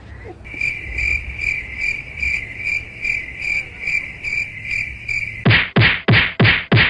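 A high-pitched chirp repeating about two and a half times a second, then five sharp knocks in quick succession near the end.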